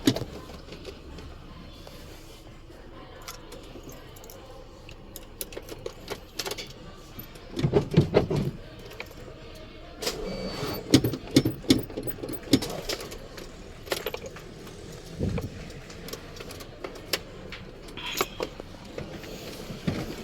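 Irregular metallic clinks, taps and knocks, as of hand tools and metal parts being handled, with a louder cluster about eight seconds in and a busy run from about ten to thirteen seconds.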